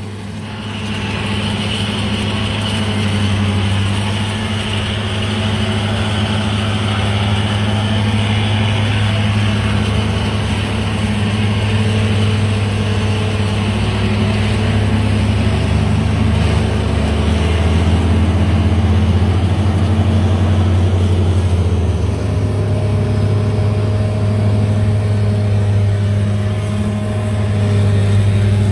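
Heavy diesel machinery of a silage harvest running together: a forage harvester working and a silage truck driving alongside it, a steady low engine drone. A higher whine sits over it for the first ten seconds or so, then fades, and the low engine note shifts lower for a few seconds past the middle before settling back.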